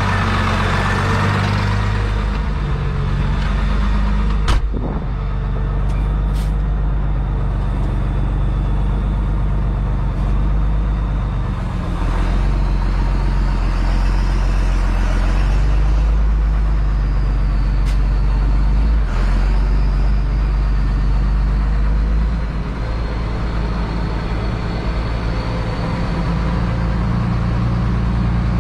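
Same Titan 160 tractor's diesel engine running steadily under way, its pitch shifting slightly now and then. A single sharp knock comes about four and a half seconds in, with a few fainter clicks later and a faint rising and falling whine in the middle.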